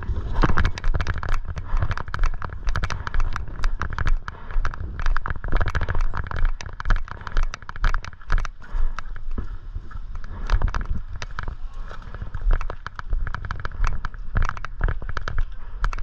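Airsoft guns firing: irregular sharp pops and clicks, some in quick clusters, over a steady low rumble.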